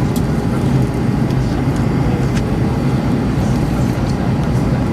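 Airbus A320-232 cabin noise in flight: the engines and airflow make a steady, even low drone, with a few faint ticks above it.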